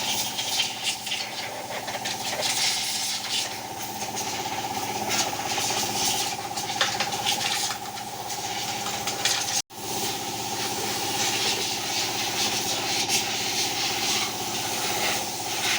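A motor runs at a steady pitch under a continuous hissing spray, as when an engine is washed down with sprayed kerosene. The sound cuts out for an instant about ten seconds in.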